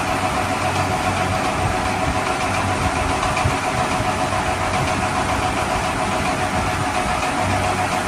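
Steady engine idling sound, even and unchanging throughout.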